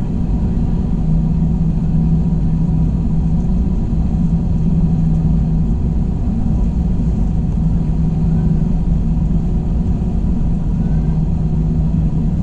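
Steady engine and airflow rumble inside an Airbus A321 passenger cabin, an even low drone with a constant hum and no changes.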